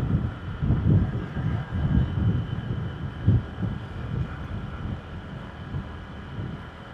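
Riding a motorbike, with wind buffeting the microphone in uneven low gusts over a faint steady engine hum. The gusts ease in the second half.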